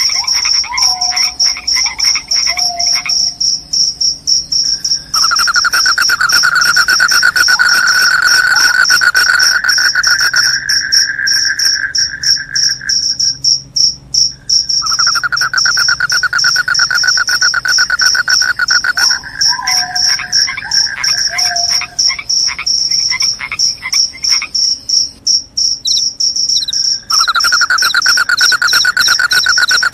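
Crickets chirping in a loud, steady, high-pitched trill. A second, lower pulsing trill comes in about five seconds in, drops out and returns twice, and short falling calls are heard near the start and again about twenty seconds in.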